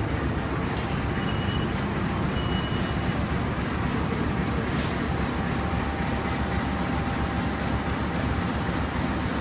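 Steady low rumble of a train, with two short sharp clicks, about a second in and about halfway through.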